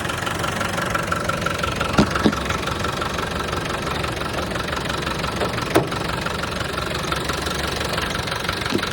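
Land Rover Defender pickup engine idling steadily after a cold start, with a few sharp clicks about two seconds in and again near the six-second mark.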